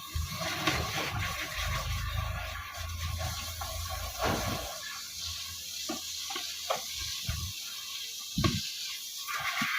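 Water splashing and sloshing during hand washing, with scattered light knocks; a low rumble underneath stops about halfway through.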